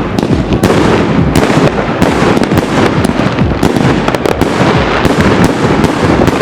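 Fireworks going off in a dense barrage: many overlapping bangs and crackles with no let-up.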